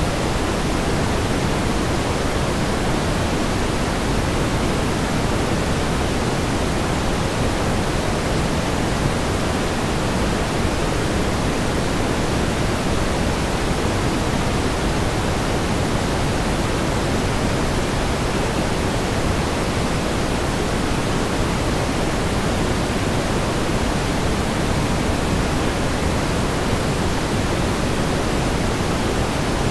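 Steady pink noise: an even, unchanging hiss, weighted toward the low end.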